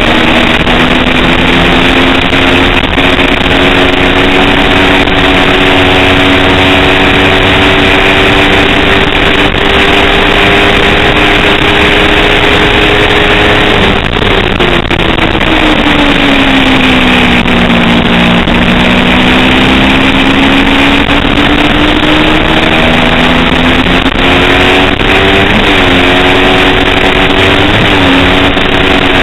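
Kawasaki Ninja 250 race bike engine running hard, its pitch climbing slowly for a long stretch, then dropping sharply about halfway as the rider shuts off and shifts down. It builds again, with two quick dips near the end at the gear changes, over a steady rush of noise.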